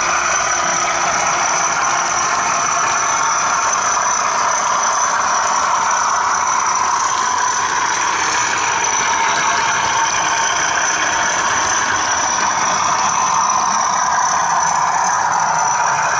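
Model class 37 diesel locomotive's sound decoder playing its engine sound through a small onboard speaker, with the clatter of model wagon wheels running on the track and a steady high whine.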